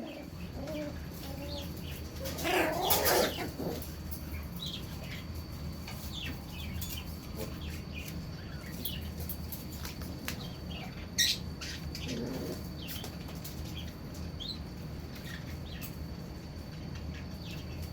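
Corgi puppies squeaking and whimpering in short, scattered high-pitched chirps, with a louder cry about three seconds in and another sharp squeak about eleven seconds in.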